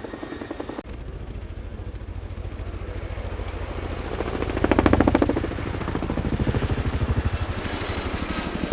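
RAF Chinook HC.6 tandem-rotor helicopter with its rapid, rhythmic rotor blade slap. It grows louder to a peak about five seconds in, then eases off.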